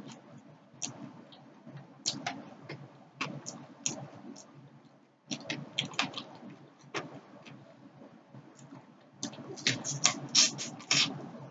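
Close-up eating sounds of fried tilapia being chewed: irregular wet mouth clicks and lip smacks, with a louder, denser run of smacking near the end.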